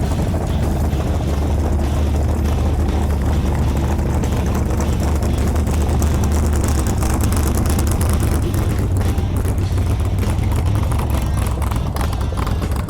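A vehicle engine running steadily, a deep continuous rumble.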